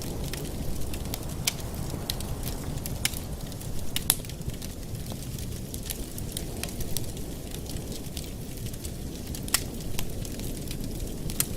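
Wood fire in a fireplace crackling, with irregular sharp pops over a steady low rush of the flames. The loudest pop comes about four seconds in.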